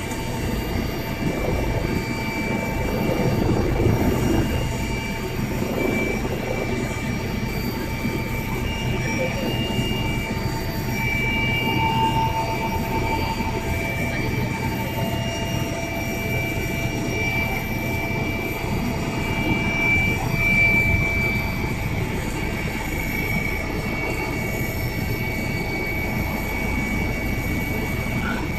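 Helicopter running: a steady, loud drone of engine and rotor noise with several steady whining tones over it.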